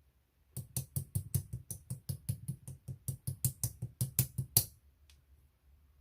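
Fingers tapping quickly and evenly, about five taps a second for some four seconds, each a dull thud with a bright click, then one faint last tap.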